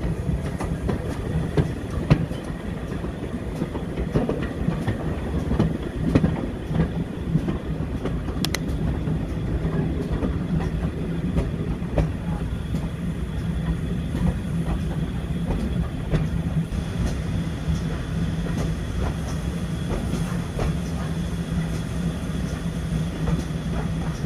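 Train running along the track: a steady rumble with irregular clicks of the wheels on the rails, and a faint high whine joining about two thirds of the way through.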